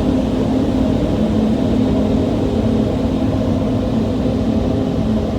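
D&S Quicksilver car wash dryer blowers running: a steady, loud rush of air with a low hum underneath, blasting water off the vehicle.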